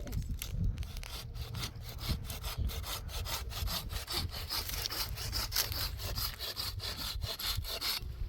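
Hand saw cutting through firewood in quick, regular back-and-forth strokes.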